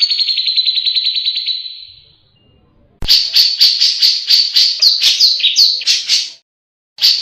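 Cucak jenggot (grey-cheeked bulbul) singing: a fast trill for about two seconds, then after a short pause a rapid series of loud chirps, about five a second. The chirps cut off suddenly and start again near the end.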